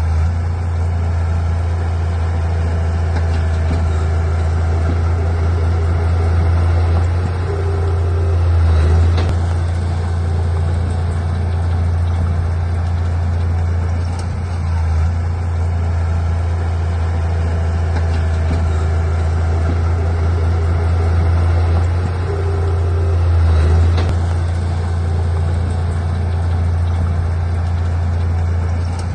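Bulldozer's diesel engine running steadily, swelling in load about a third of the way in and again near the end, about fifteen seconds apart.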